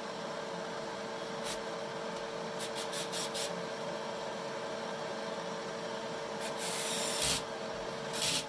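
Machinery running with a steady hum and a held tone, broken by short bursts of hissing: several quick ones in a row about three seconds in and a longer one about seven seconds in.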